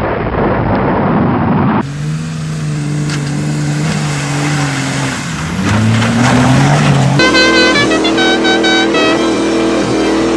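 Second-generation Dodge pickup's engine running hard under throttle, its pitch climbing and falling as it revs, in several abrupt cuts.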